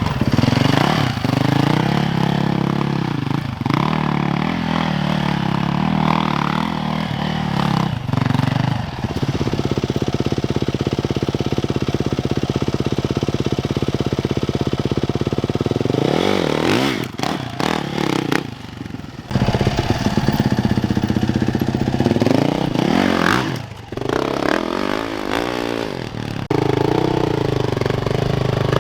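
Yamaha YZ450FX's single-cylinder four-stroke engine, rising and falling in revs with throttle blips, held at steady revs through the middle stretch.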